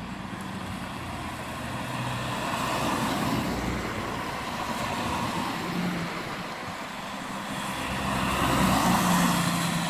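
Car engines running as vehicles move about, louder twice: about three seconds in and again about nine seconds in.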